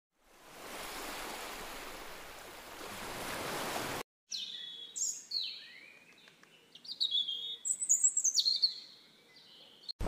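A steady rushing noise for about four seconds that cuts off abruptly, then birds chirping: a series of high, short calls, many dropping in pitch, grouped more densely near the end.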